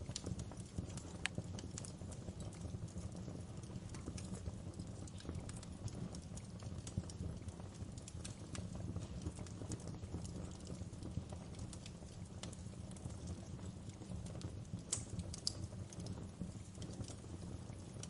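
Wood fire crackling in a fireplace: irregular sharp pops and crackles over a steady low rumble, with a louder pop about a second in and another near the end.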